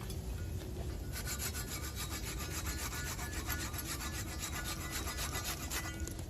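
A rapid, rhythmic rasping scrape that starts about a second in and stops shortly before the end, over a steady low rumble.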